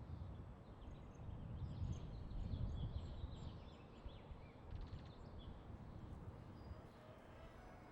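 Faint outdoor ambience: scattered short bird chirps over a low rumble, loudest around two to three seconds in.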